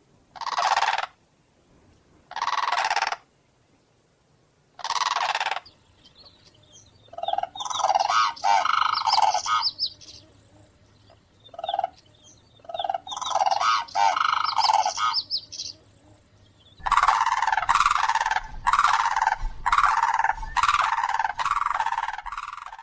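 Common cranes calling: three single trumpeting calls a couple of seconds apart, then bouts of rapid repeated calls. The last and loudest bout runs for about six seconds.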